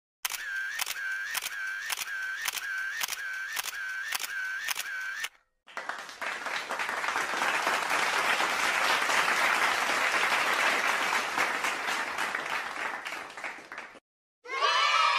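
A camera shutter sound effect firing about ten times, roughly two clicks a second, followed by applause that swells and then fades out. Near the end, crowd cheering begins.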